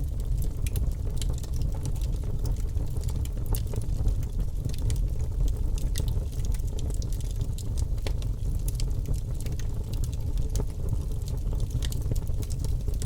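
Wood fire crackling in a fireplace: irregular sharp pops and snaps scattered over a steady low rumble of the flames.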